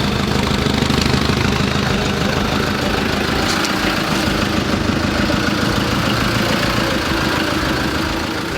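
Off-road 4x4's engine running steadily, with no change in revs.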